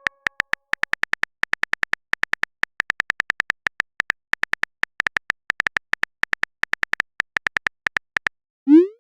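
Chat-app typing sound effect: a rapid run of short high beeps, about five a second at an uneven pace, as text is typed out. Near the end it stops and a short rising swoop follows.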